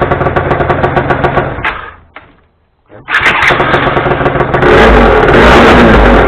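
Yamaha Grand Axis 100 scooter's two-stroke engine being started after a carburettor strip-down and clean: it runs briefly and dies away about two seconds in, then starts again a second later and is revved loudly near the end.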